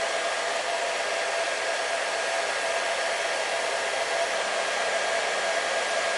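Hair dryer running steadily at constant speed: an even rush of airflow with a steady hum in the middle.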